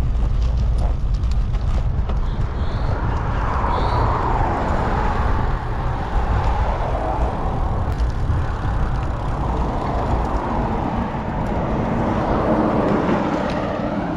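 Motor traffic passing on a busy road, with a steady low rumble of wind buffeting the microphone of a moving bicycle; the traffic noise swells about four seconds in and again near the end as vehicles go by.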